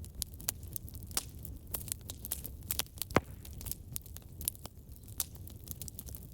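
Wood fire burning in a fireplace: a steady low rumble with irregular crackles and snaps, and one louder pop about three seconds in.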